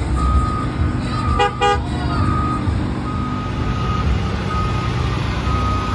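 A vehicle's reversing alarm beeping about once a second, with two short horn toots about a second and a half in, over a steady low rumble of engines and generators.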